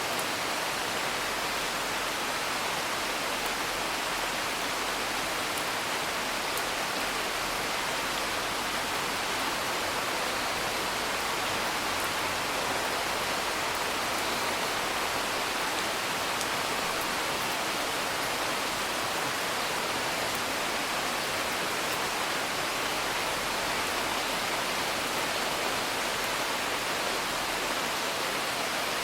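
Steady hiss of heavy rain, even and unbroken, with a few faint crackles of a wood fire now and then.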